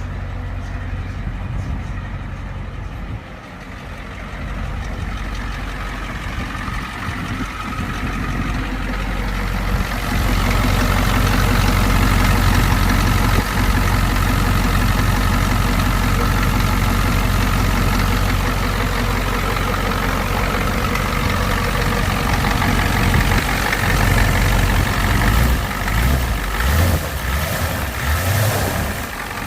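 Ford 7.3 IDI diesel V8 idling steadily, growing louder and fuller about ten seconds in.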